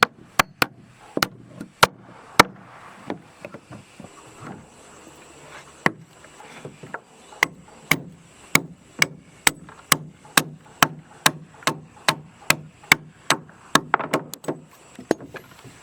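Wood being struck repeatedly with a hand tool, in sharp single blows. The blows are irregular at first, pause for a few seconds, then settle into a steady rhythm of about two a second.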